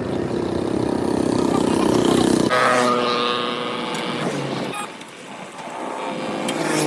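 Motor vehicle engine running, its pitch falling and then rising again, with an abrupt change in the sound about two and a half seconds in.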